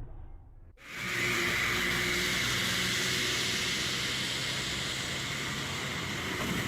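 A car driving at steady speed: its engine runs evenly under a constant rush of road and wind noise. The sound starts abruptly about a second in.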